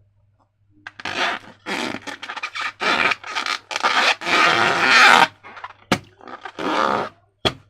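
Slime being squished and worked by hand: a dense run of irregular squelching noises that starts about a second in and stops a little after five seconds, followed by a few more squelches near the end.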